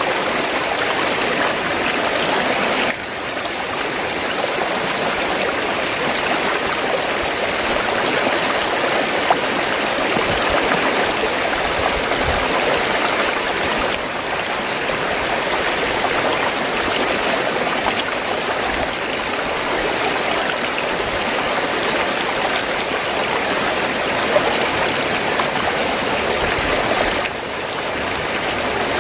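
Fast-flowing stream of water gurgling and rushing steadily.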